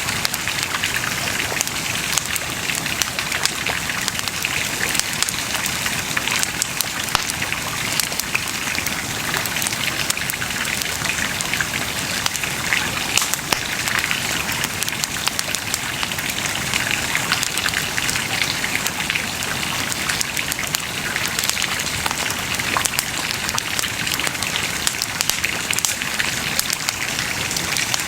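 Bonfire crackling steadily, with many small sharp pops over a continuous hiss.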